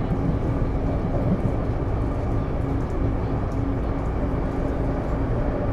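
Interior running sound of a Taipei Metro C301 metro car, refitted with Bombardier IGBT-VVVF traction: a steady rumble of wheels on rail with a faint even hum, the train holding a steady speed.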